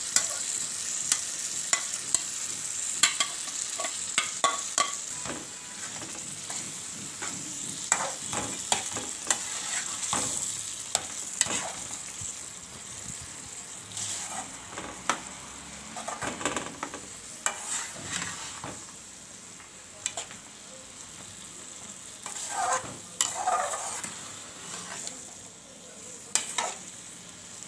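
Boiled chana dal sizzling in a tomato-and-spice masala in a metal karahi while a perforated metal spatula stirs it, with frequent clicks and scrapes of the spatula against the pan. The sizzle grows fainter after about ten seconds, and a cluster of louder scrapes comes near the end.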